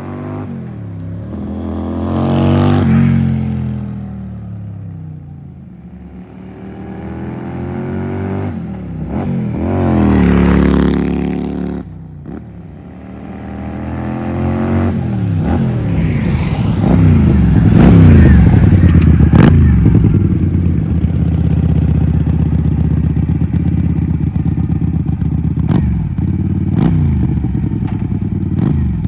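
Keeway Benda V252C motorcycle engine through a custom exhaust, revving up and dropping back several times. From about two-thirds in it holds a steady, loud run, with a few sharp clicks.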